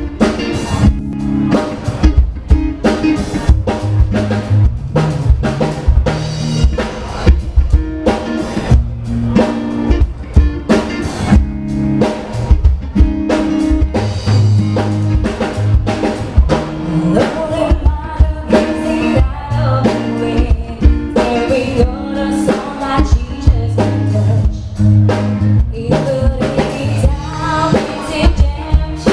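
Band music with a steady drum-kit beat, bass, guitar and singing.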